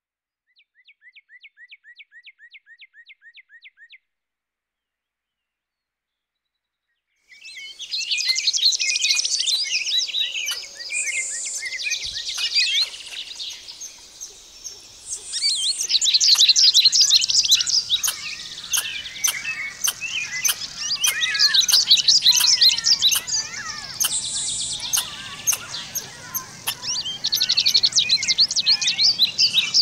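A short trill of rapid, evenly repeated chirps, then silence, then from about seven seconds in a flock of many small birds chirping and chattering at once in a dense chorus.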